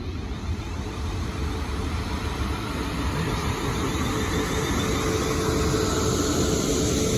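Pair of class 450 Desiro electric multiple units running at the platform, a steady rumble that grows louder, with a steady hum coming in about five seconds in.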